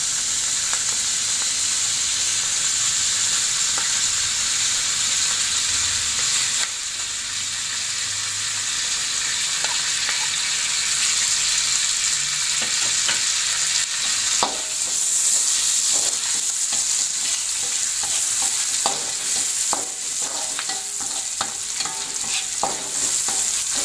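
Sliced garlic and shallots frying in hot oil in a wok, a steady sizzling hiss, with a metal spatula scraping and tapping the pan in short strokes from about ten seconds in.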